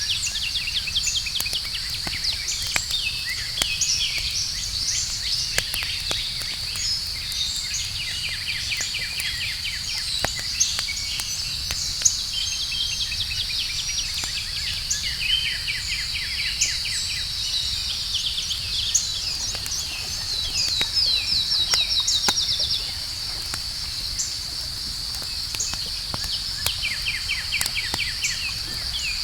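Outdoor campfire ambience: a fire crackling with scattered sharp pops over a low rumble, a steady high insect trill of crickets, and birds calling in quick trills, one louder run of trills stopping about 23 seconds in.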